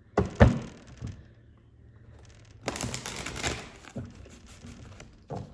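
Deck of oracle cards being handled: a couple of sharp taps on the table, then the cards being shuffled for about a second.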